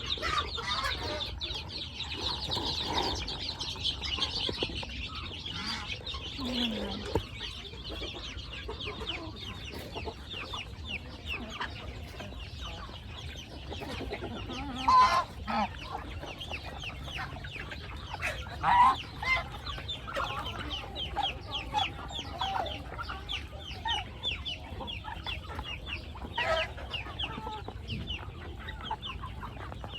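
Chickens clucking over a constant run of short high chirps, with a few louder calls about halfway through.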